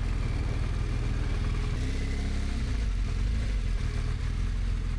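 BMW motorcycle engine running at low road speed, with wind noise on the microphone; the engine note shifts about two seconds in.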